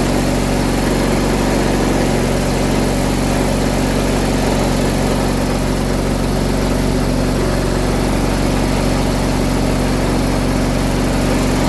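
John Deere 317 garden tractor engine running steadily at idle, freshly started and warming up.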